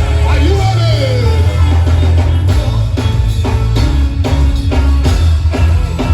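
Live worship band playing with heavy bass and a drum kit, with a voice singing sliding phrases at the start and steady drum hits through the rest.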